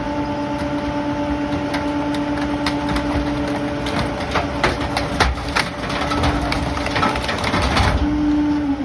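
Rear-loader garbage truck running at raised, steady revs while its packer compacts flood debris. From about three seconds in there is a rapid series of cracks and snaps as the load breaks up, and near the end the engine note drops and starts to fall away.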